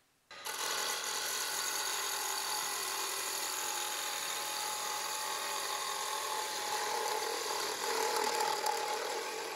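Wood lathe running while a turning gouge cuts the spinning wood, a steady hiss with faint steady motor tones, starting abruptly just after the start.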